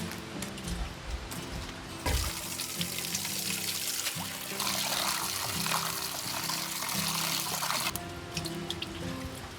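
Rushing, running water, loud and steady, cutting in about two seconds in and cutting out abruptly near the end, over soft background music; before and after it, only faint scattered drips.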